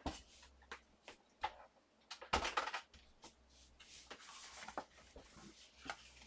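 Light clicks, taps and rustling of craft paper and small tools being handled and moved about on a desk, with a short cluster of clicks about two and a half seconds in.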